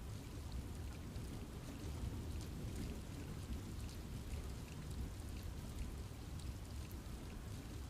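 Steady rain falling in a forest, a constant hiss with many small drop ticks on leaves, over a low rumble.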